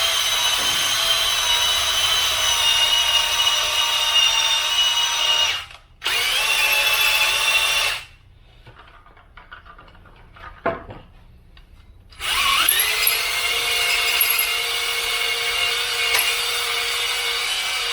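Electric drill driving a cylinder hone in an engine block's bore, a steady whine with the stones rubbing on the cylinder wall. It cuts out for a moment about a third of the way in, then stops for about four seconds with a faint knock, and spins back up with a rising whine just after halfway.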